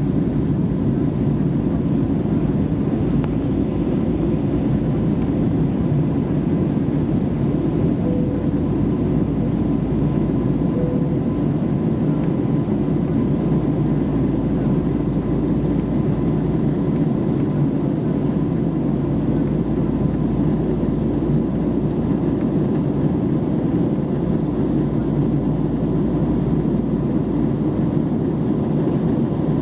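Airbus A320neo cabin noise in flight: a steady, deep rush of jet engines and airflow, with a faint steady whine above it.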